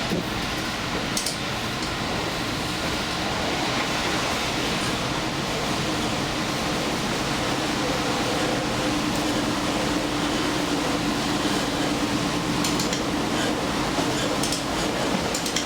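Interior running noise of a diesel limited express train under way: a steady rumble with a low hum that is strongest in the middle, and a few light clicks and rattles near the start and end.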